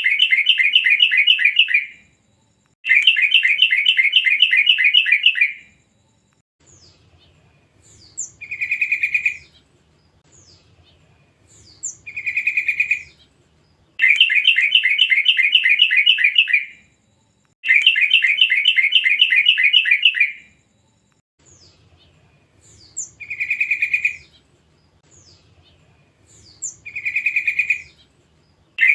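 Young wild yellow-vented bulbul (trucukan) calling: long fast chattering trills of about three seconds alternate with shorter phrases of a few high falling notes, each ending in a brief bubbling burst, the pattern repeating.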